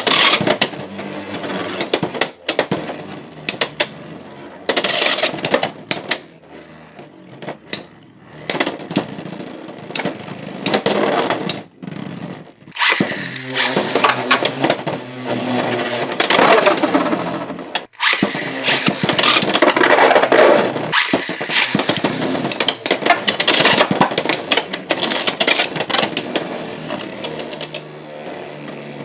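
Beyblade X tops, Fox Brush J9-60LR against Silver Wolf 9-80FB, spinning and battling in a plastic stadium: a whirring spin with rapid, irregular clacking collisions and rattles, over several short rounds that stop abruptly.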